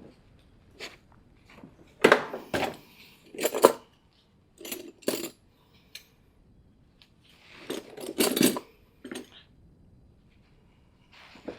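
Metal tools and parts clanking and clinking during hands-on mechanical work: clusters of sharp metallic knocks and rattles, loudest about two, three and a half, and eight seconds in.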